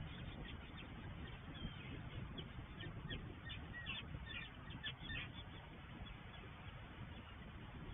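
Faint calls of water birds: a quick run of short, high notes around the middle, over a steady low rumble.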